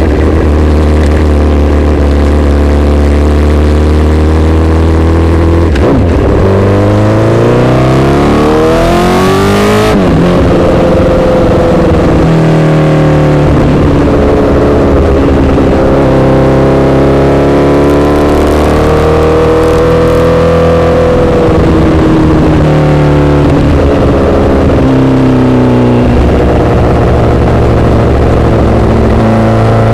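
Honda CBR1000RR inline-four sportbike engine through an SC-Project exhaust, under way: holding steady revs, then rising for about four seconds before dropping sharply at an upshift about a third of the way in. After that it runs at fairly steady revs, swelling and easing gently, with another drop in revs later on.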